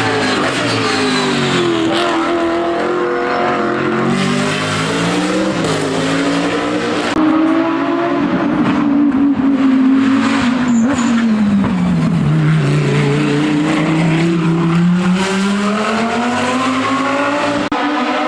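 Hill-climb race car engine at high revs, its pitch sinking and climbing again twice as it comes off and back onto the throttle.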